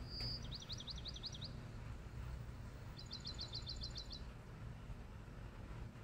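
Songbird singing: a short high whistle followed by about six quick rising-and-falling notes, then about three seconds in a fast, even trill of about a dozen notes. A steady low background noise runs underneath.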